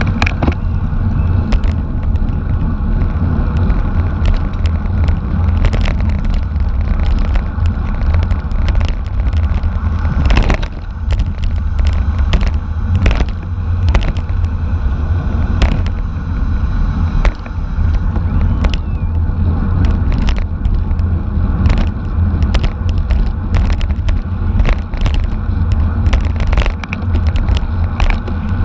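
Road rumble and wind buffeting on a bicycle-mounted camera while racing at speed, with frequent sharp clicks and rattles.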